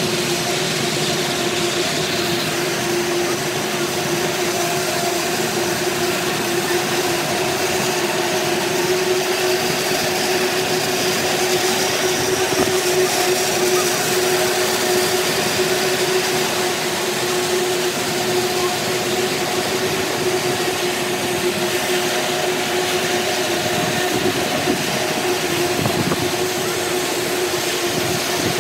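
Freight train of tank cars rolling steadily past: the continuous rumble and clatter of steel wheels on the rails, with a steady hum underneath.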